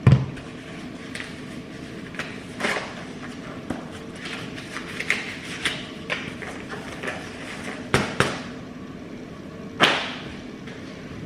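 Irregular sharp thuds and knocks with lighter clicks between them over a steady low background. The strongest come right at the start, around eight seconds in as a quick pair, and near the end.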